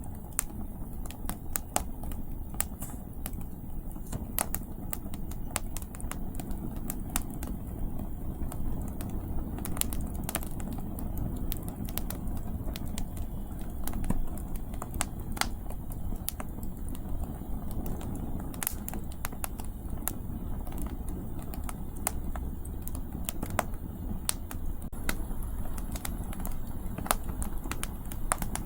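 Wood campfire burning, its firewood crackling and popping in sharp irregular clicks, over a steady low rumble of wind.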